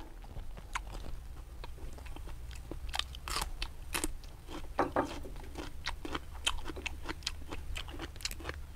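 A man eating crisp chilled bitter melon: irregular crunches as he bites into a slice and chews it.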